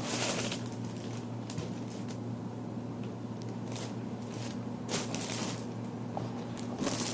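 Rustling and scraping as a bed table is handled and set up to stand, in a few short bursts, over a steady low hum.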